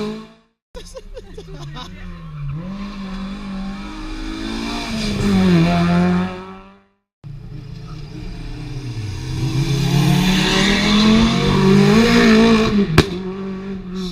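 Rally car engines revving hard and dropping between gear changes, each getting louder as the car approaches, in two separate runs that cut off abruptly. A single sharp crack near the end.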